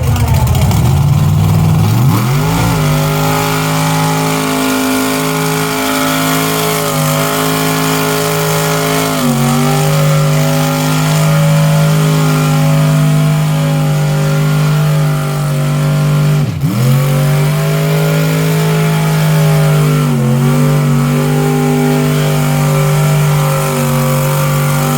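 Big mega truck engine held at high revs at a nearly steady pitch, with brief dips as the throttle eases, and one sharp drop and rise back about two-thirds of the way through.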